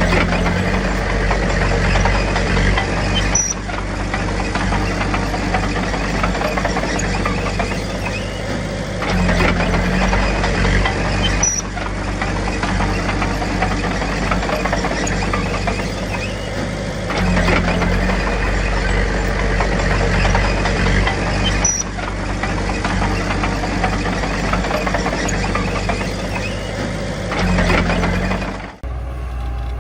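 Diesel engine of a Komatsu D21P crawler bulldozer working, its load swelling and easing in a repeating cycle about every eight to nine seconds. The sound breaks off abruptly near the end.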